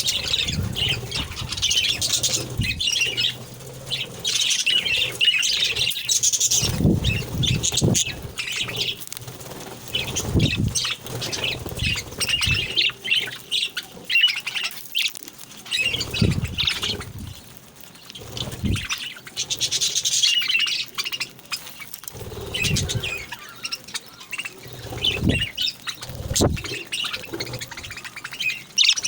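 Small pet birds chirping, squawking and chattering continuously, with occasional short low thumps among the calls.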